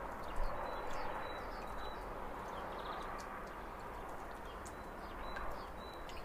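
Outdoor ambience: a steady rushing hiss with short, high bird chirps scattered throughout.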